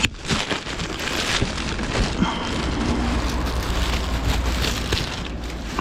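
Plastic bags and packaging crinkling and rustling as things are handled and packed, with scattered small knocks.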